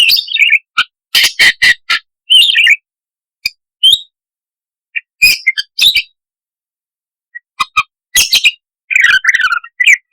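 Budgerigar chattering and squawking in short, rapid bursts of chirps and scratchy calls, broken by brief silences and ending in a dense run of warbling chatter.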